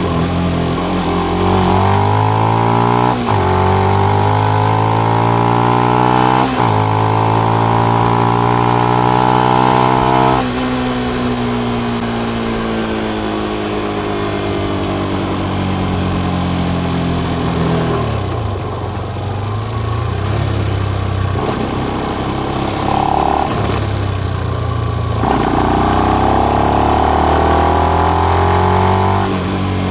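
Benelli BN125's single-cylinder four-stroke engine through its stock exhaust with the dB killer in. It revs up through the gears with two quick upshifts in the first ten seconds, then the throttle closes and the revs fall away for several seconds. It runs low for a while, then accelerates again near the end.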